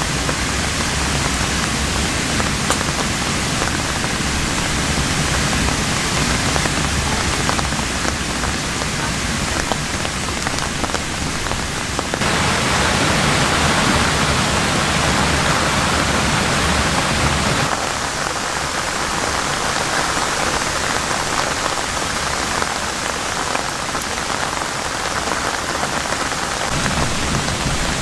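Heavy rain falling as a dense, steady hiss with many fine drop ticks. It turns abruptly louder about twelve seconds in and drops back just as suddenly some six seconds later.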